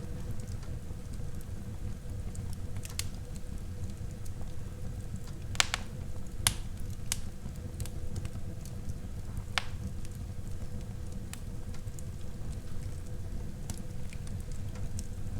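Wood fire burning in a fireplace: a steady low rumble with constant small crackles and a few sharp, louder pops, most of them in the middle of the stretch.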